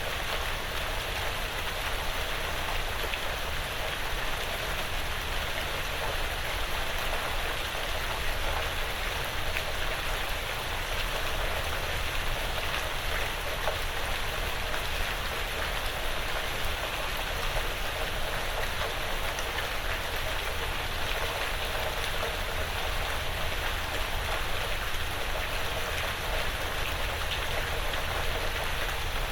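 Steady rain falling on a porch roof and the surrounding woods, a dense, even patter of drops with a low rumble underneath.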